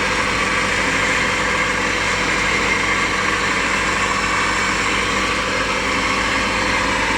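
Freshly rebuilt Honda VTEC four-cylinder engine idling steadily.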